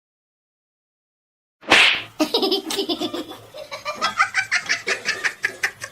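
Dead silence for about a second and a half, then a sudden loud burst, followed by a person laughing in quick rhythmic bursts.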